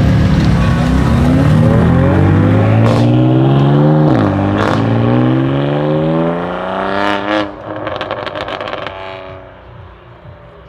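Sports car engine accelerating hard through the gears: the revs climb, drop sharply at a shift about four seconds in, then climb again. About seven and a half seconds in the throttle lifts and a rapid run of crackles follows, then the engine settles to a much quieter note near the end.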